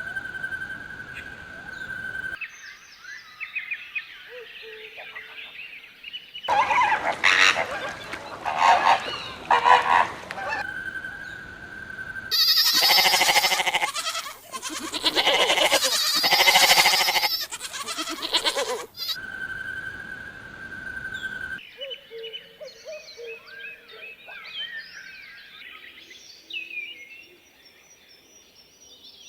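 A run of separate animal-call recordings cut one after another, loudest in two long stretches of pitched calls in the middle, with smaller busy calls toward the end.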